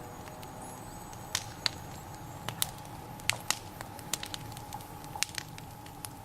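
Wood campfire burning well, crackling with a dozen or so irregular sharp snaps and pops over a low steady rush.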